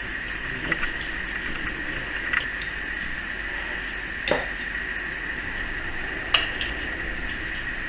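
A spoon clicking and scraping lightly four times as chocolate-coated chow mein noodles are spooned into paper cupcake liners, the sharpest click near the end, over a steady high-pitched hum.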